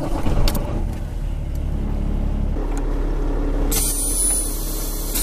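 Semi-truck engine rumbling steadily at a low pitch, joined about two-thirds of the way in by a steady high hiss of air.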